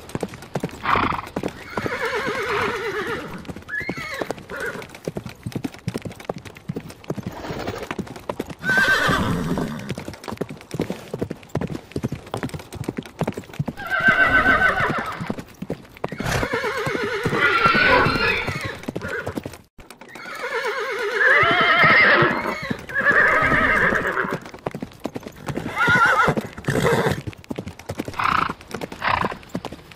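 Horses whinnying again and again in long, quavering calls, over a steady clip-clop of hooves. The sound breaks off briefly about two-thirds of the way through.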